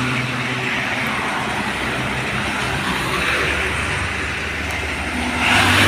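Road traffic: motor vehicles driving past, a steady mix of engine drone and tyre noise, with another vehicle passing close near the end.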